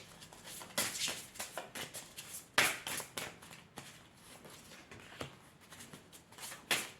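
Oracle cards being handled: a run of light taps, flicks and rustles of card stock, the sharpest about two and a half seconds in.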